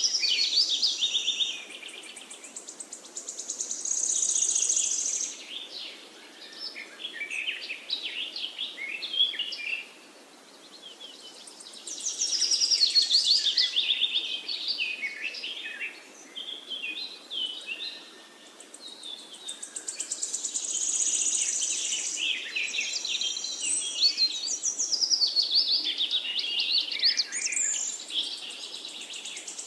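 Parakeet chirping and chattering in bursts of rapid, high trilled notes, with brief lulls between runs.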